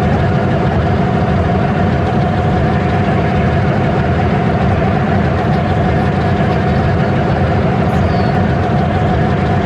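Train running steadily: a continuous low rumble with a steady mechanical hum over it, holding the same level throughout.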